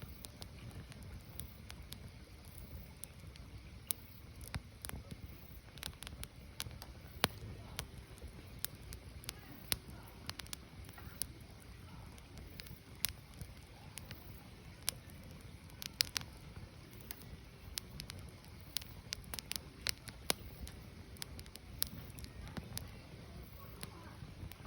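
Firewood burning, with irregular sharp crackles and pops, several a second, over a low steady rumble of the fire.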